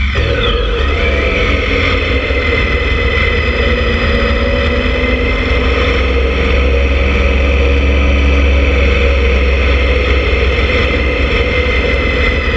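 Motorcycle engine running at a steady cruising speed, its pitch rising a little in the first couple of seconds and then holding, with heavy wind rumble on the camera microphone.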